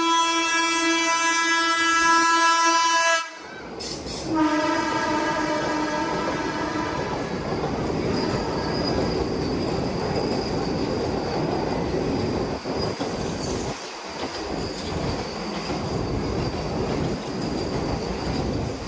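Vande Bharat Express electric train sounding its horn in two long blasts with a short break between them, then running past on the rails with a steady rumble of wheels.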